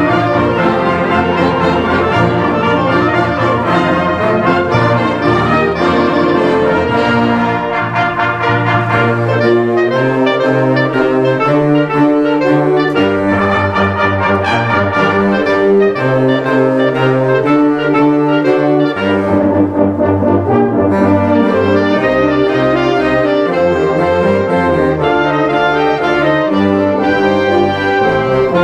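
Concert band playing, led by trumpets and trombones, moving through a series of held chords at a steady level.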